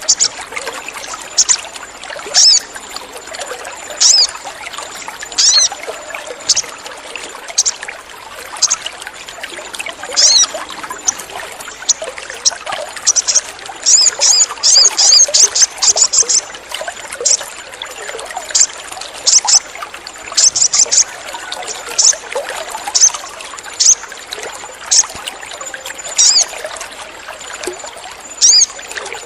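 Sogon birds calling in short, sharp, high chirps about once a second, with a fast run of rapid chirps in the middle, over a steady trickling-water background.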